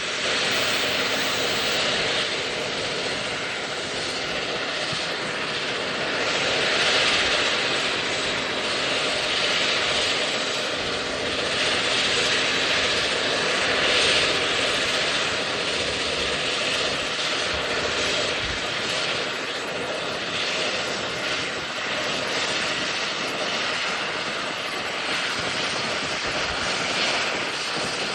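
Airliner engines running, a loud continuous rushing noise that swells and eases several times, with a faint steady hum underneath.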